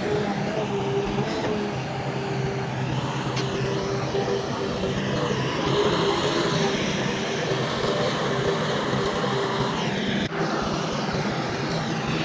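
Heavy diesel earthmoving machinery, a bulldozer and dump trucks, running steadily under load, with a wavering whine over the engine hum.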